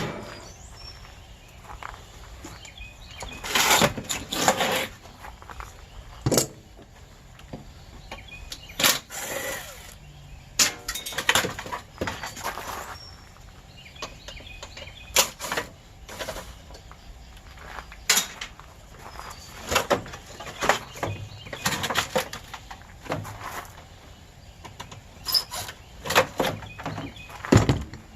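Irregular metal clanks, knocks and short rattling scrapes of an air conditioner being pulled apart by hand for scrap, a dozen or so separate strikes with pauses between.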